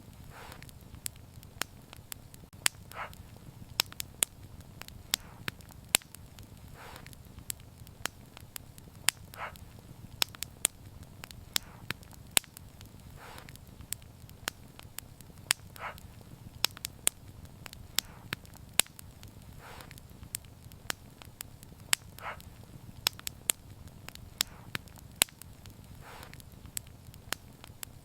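Wood fire crackling: frequent sharp pops and snaps, a few each second, over a low steady rumble of the burning.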